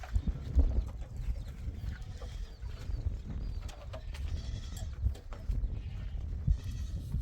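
Goats bleating a few times over a steady low rumble.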